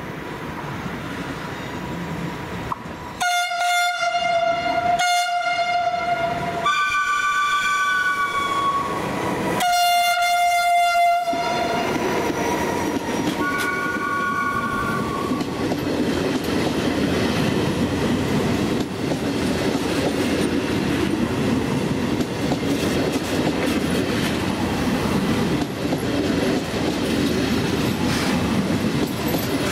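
Italian electric train's two-tone horn sounding five blasts, alternating a lower note and a higher two-note chord, starting about three seconds in. From about halfway the steady rumble and clatter of a passenger train rolling past close by takes over.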